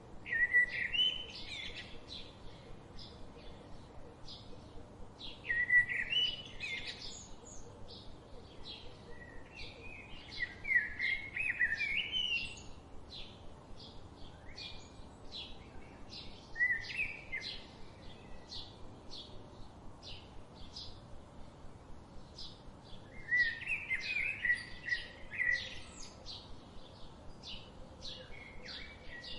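Wild birds singing: a loud warbling song phrase comes about every five or six seconds, five times, over a steady run of short, high chirps from other birds.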